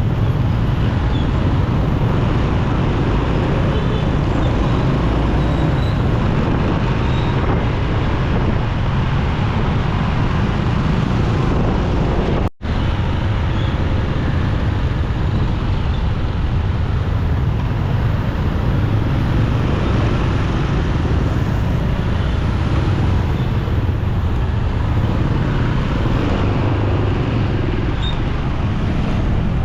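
Traffic noise heard from a moving motorcycle: a steady rumble of engines and road noise with wind on the microphone. The sound cuts out for an instant about halfway through.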